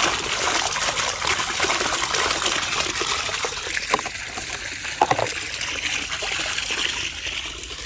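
Water trickling and running steadily, like rainwater runoff, with two short high blips about four and five seconds in.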